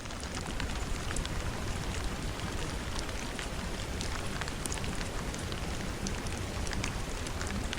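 Steady rain falling, with many sharp individual drop hits on a surface close to the microphone.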